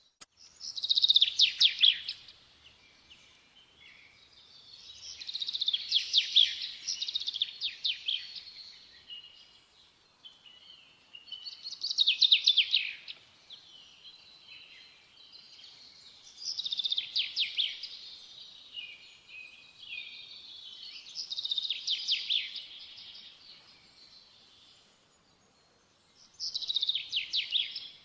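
A songbird singing in rapid, high trilled phrases, each a second or two long and repeated every four to five seconds, with faint twittering in between.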